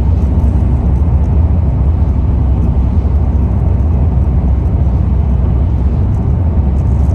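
Steady low rumble of a car driving at speed, heard from inside the cabin: engine and road noise.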